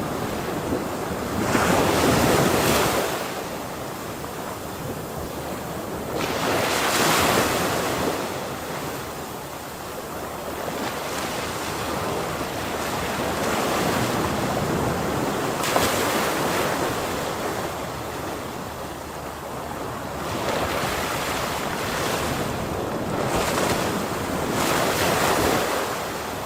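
Ocean waves breaking on the shore, the surf swelling into a louder crash every few seconds and easing back between them.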